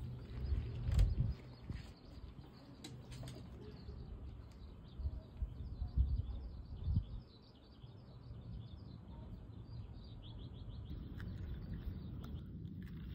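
Small birds chirping in the background over a low steady rumble, with a few dull thumps about a second in and again around six to seven seconds.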